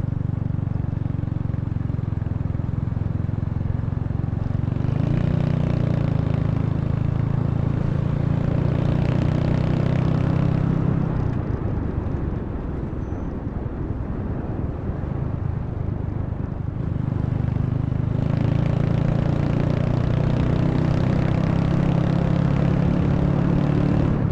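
Honda Wave 125's single-cylinder four-stroke engine running as the motorcycle is ridden, with wind rushing over the microphone. The engine picks up about five seconds in, eases off about halfway through, and pulls again a few seconds later.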